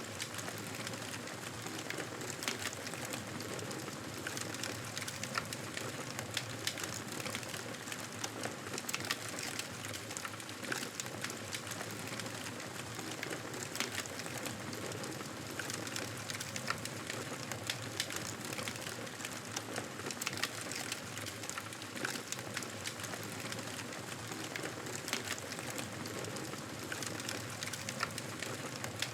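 Campfire burning, a constant hiss with frequent small crackles and pops of burning wood.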